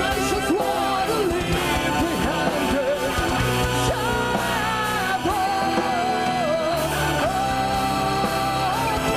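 Progressive metal band playing live: a sung melody with long held, wavering notes over guitars, bass and drums, with the drum hits mostly in the first few seconds.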